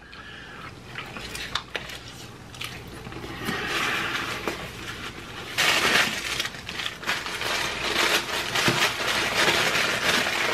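Close-miked chewing and crunching of hard-shell tacos: a dense run of crackles and wet clicks, getting louder about five and a half seconds in.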